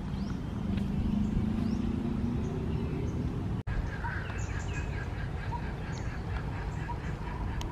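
Birds chirping and calling over a steady low outdoor rumble. After a brief dropout about halfway through, the calls grow busier, with quick repeated high notes.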